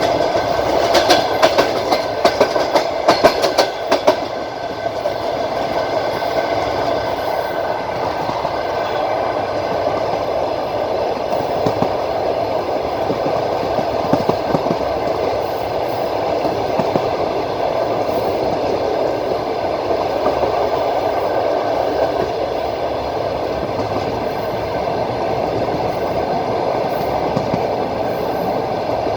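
Passenger train's wheels running over the rails, heard from on board. A quick run of sharp clicks comes in the first few seconds, then a steady rumbling clatter.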